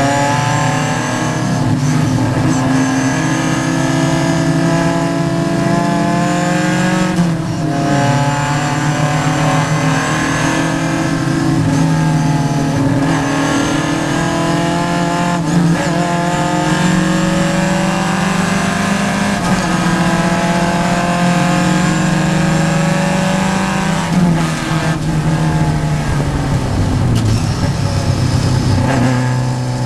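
A vintage Triumph race car's engine heard from inside the cockpit, pulling hard with the pitch climbing and then dropping sharply at each of several gear changes. Near the end the pitch falls for a few seconds as the car slows, then climbs again.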